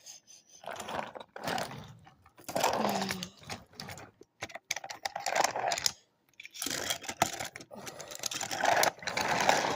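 Toy trains being run along a wooden railway track, the wheels rattling and clicking over the wooden rails in several uneven runs of a second or more each, with short pauses between.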